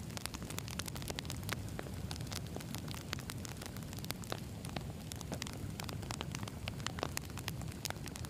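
Wood fire burning, with a steady low rumble of flames and frequent sharp, irregular crackles and pops from the burning logs.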